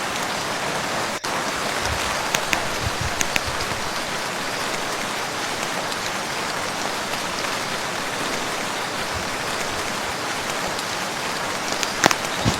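Steady rain falling on a lake and its shore, an even hiss with scattered louder drops splashing close by, a few of them between two and three and a half seconds in and again near the end. The sound cuts out for an instant about a second in.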